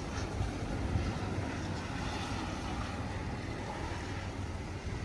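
Blizzard wind blowing steadily, with wind buffeting the microphone as a low rumble.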